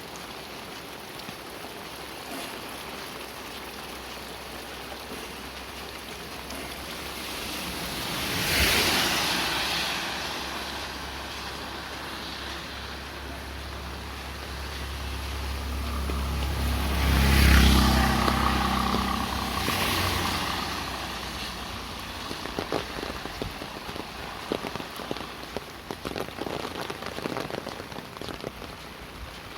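Motor vehicles passing on a wet road over a steady rain hiss: one goes by quickly about eight seconds in, then a larger engine builds up and passes about two-thirds of the way through, with another close behind. Scattered light taps follow near the end.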